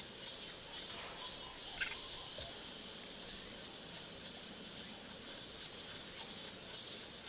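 Insects chirping in a steady, pulsing high-pitched chorus, with one sharp click a little under two seconds in.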